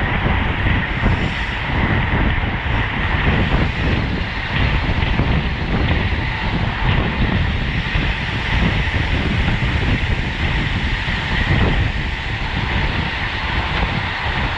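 Steady wind and road noise from a road bicycle at racing speed: air rushing over the bike-mounted camera's microphone over a low rumble of tyres on asphalt.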